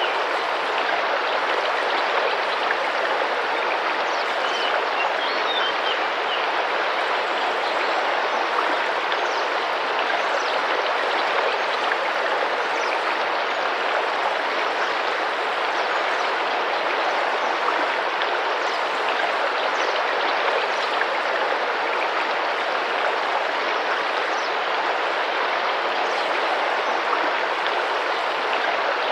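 Tropical rainforest river flowing and splashing, a steady, even rush of water. A few faint bird chirps sound about five seconds in.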